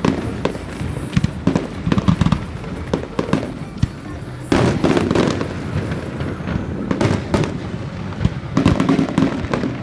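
Fireworks exploding in irregular bangs and crackles, with dense clusters of reports about halfway through and again near the end.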